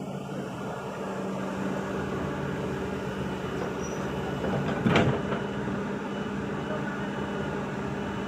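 Heavy diesel machinery engine running steadily, with one brief loud crash about five seconds in.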